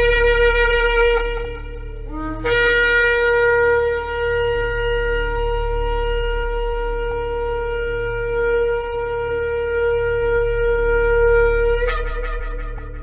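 Shofar blown: a blast that stops about a second and a half in, a short rising note, then one long steady blast of about nine seconds that ends with an upward break in pitch near the end.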